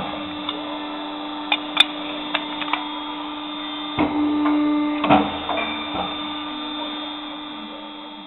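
Boschert corner-notching machine running with a steady hum, broken by a few sharp clicks and two louder knocks about four and five seconds in as it works; the hum fades near the end.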